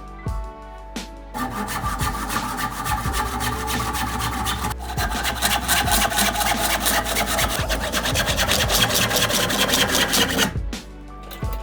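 A hand tool worked in quick, rhythmic strokes across a red oak bow stave, wood being rasped away, with a brief break near the middle. Soft background music before and after the strokes.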